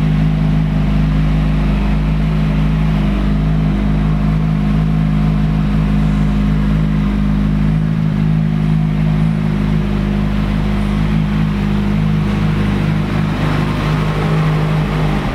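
2007 Kawasaki ZX-6R's 599 cc inline-four idling steadily through its stock factory exhaust, holding one even pitch with no revving.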